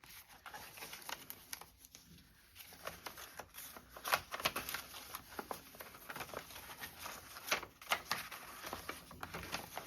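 Thin paper rustling and crinkling, with light taps and clicks, as a paper pocket is handled, lined up and glued down onto a journal page; the sharpest clicks come about 4 and 7.5 seconds in.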